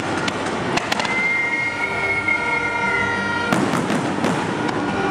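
Aerial fireworks going off: a steady run of crackling pops and bangs, with a dense burst of cracks about three and a half seconds in.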